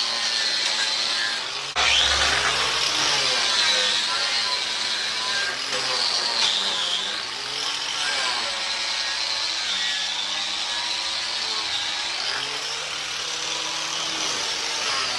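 Electric angle grinder with a surface-preparation pad scrubbing rust scale off a steel fuel-tank strap, its motor pitch dipping and recovering as the pad is pressed onto the metal. It gets suddenly louder about two seconds in.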